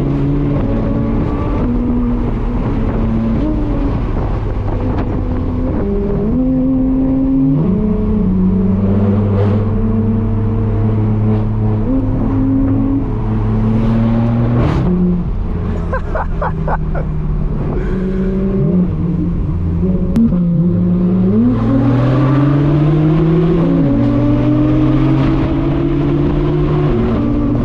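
Straight-piped BMW M4 F82's twin-turbo inline-six exhaust under hard driving: the engine note climbs repeatedly and drops at each gear change. A quick run of exhaust pops and crackles comes about halfway through.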